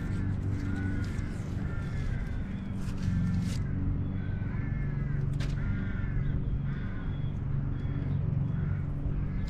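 Birds calling over and over, short arched calls about once a second, with a steady low hum underneath and a few short sharp crackles around three and five seconds in.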